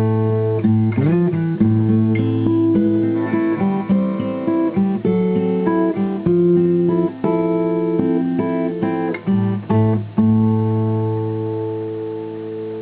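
A 1980 Tokai Cat's Eyes CE400 acoustic guitar being played, a quick run of picked notes over ringing bass notes. A final chord about ten seconds in is left to ring and slowly fade.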